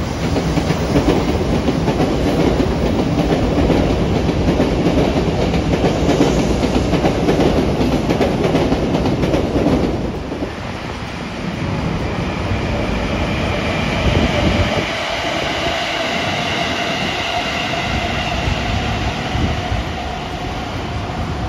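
A train passing close by on the rails, its wheels rumbling loudly for about ten seconds. The noise then drops, and a thin high whine carries on, slowly rising in pitch.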